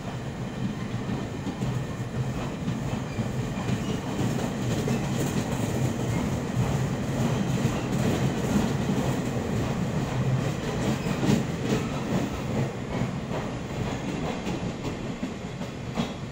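Passenger train carriages rolling past close by as the train pulls out of the station: a steady rumble of wheels on rail, with clicks as the wheels cross the rail joints.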